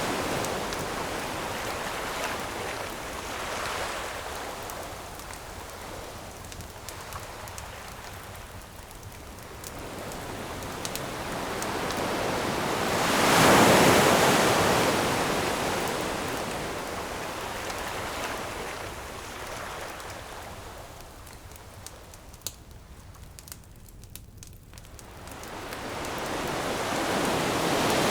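Ocean surf washing onto a beach: one wave swells and breaks about halfway through, the sea eases off, and the next wave builds near the end. Small crackles of a wood campfire sound through it, clearest in the lull before the last wave.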